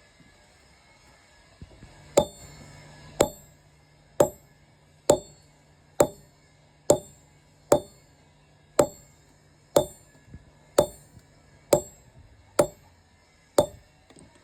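Blacksmith's hammer striking metal on an anvil while forging a knife, about one blow a second, each with a ringing metallic note, starting about two seconds in.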